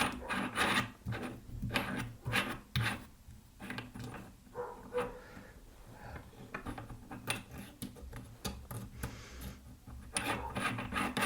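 Irregular rubbing and scraping with small knocks, from hands working at the pillar drill's chuck and drill bit.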